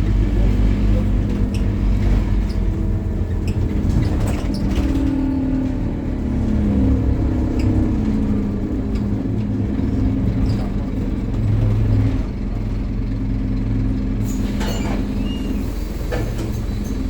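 Scania N270UD bus engine running under load, its pitch rising and falling several times as it pulls and changes gear, then easing off about twelve seconds in. There are a couple of brief hisses near the end.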